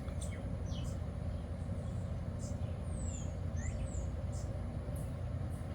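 Small birds chirping, with short high rising and falling calls scattered throughout, over a steady low outdoor rumble.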